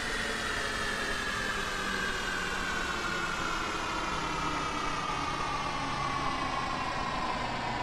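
Science-fiction sound effect: a steady mechanical-sounding drone with a whine that slowly falls in pitch.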